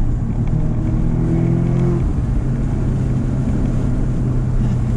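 2016 Audi S3's turbocharged 2.0-litre four-cylinder engine running through a full Milltek sports exhaust, heard from inside the cabin while driving: a steady, loud engine drone. Its pitch rises slightly and then drops back about two seconds in.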